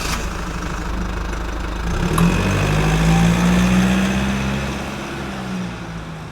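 Heavy equipment's diesel engine running, rising in revs about two seconds in and then easing off.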